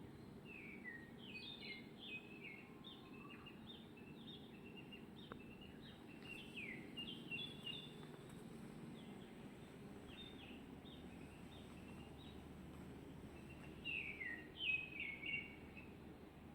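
Small birds calling in groups of short, sharp, falling chirps, with pauses between the groups and the loudest run near the end. A steady low hum lies underneath.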